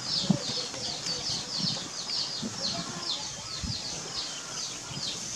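A bird calling in a rapid, even series of short, high chirps, each falling in pitch, about four to five a second.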